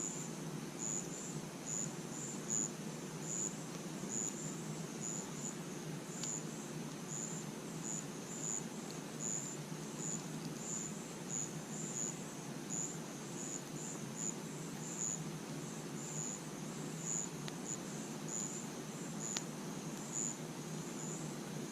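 Crickets chirping steadily, short high chirps repeating about twice a second, over a constant low hiss with a couple of faint crackling pops from a campfire.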